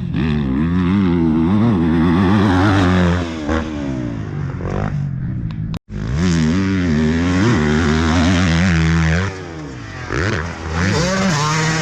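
Motocross dirt bike engines revving up and down through the throttle, the pitch rising and falling repeatedly. The sound drops out for an instant about six seconds in and is quieter after about nine seconds.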